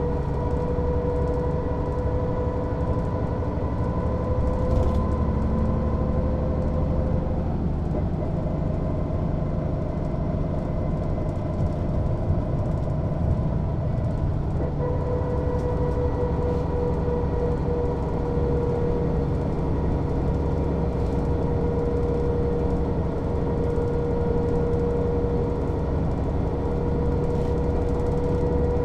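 Mercedes-Benz O 407 city bus under way: a steady diesel engine and road rumble with a high whine on top. The whine fades out at about eight seconds and comes back at about fifteen seconds.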